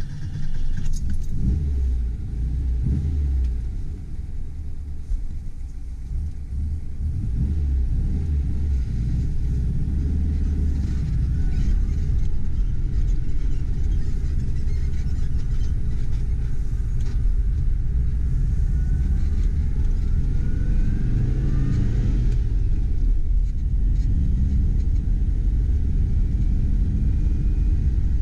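The air-cooled flat-four engine of a 1969 Porsche 912, heard from inside the cabin as the car pulls away from a stop and accelerates. The engine note rises in pitch under acceleration and dips briefly about 23 seconds in.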